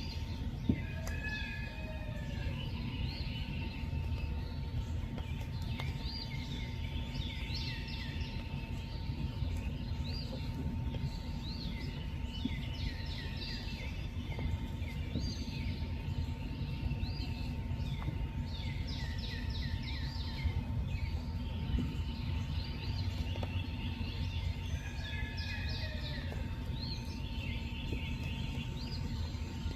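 Birds singing: repeated phrases of quick sweeping chirps, over a steady low rumble and a faint constant high hum.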